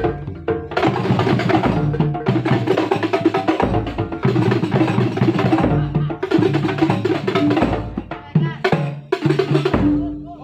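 Kuntulan ensemble rehearsing: drums and other struck percussion playing a busy rhythm together with pitched instruments.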